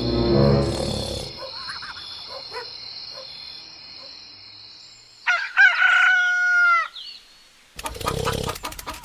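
A rooster crowing once, about five seconds in, lasting about a second and a half. Before it, near the start, comes a loud sound that falls in pitch; near the end there is a scratchy noise.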